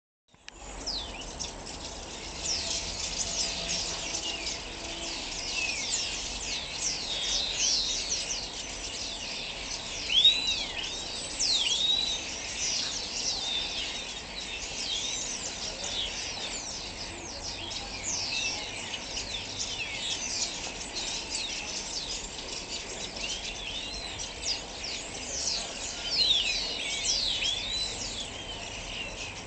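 Many small birds chirping and calling at once: a dense, continuous stream of short high chirps and quick rising-and-falling notes that overlap one another, with one louder call about ten seconds in.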